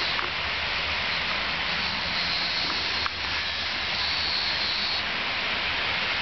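Freight train rolling past: a steady rumble and rush of wheels on rails, with a faint high squeal through the middle.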